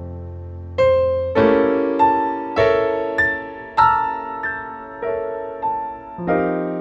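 Slow, gentle piano melody, single notes struck about every half second to a second and left to ring and fade.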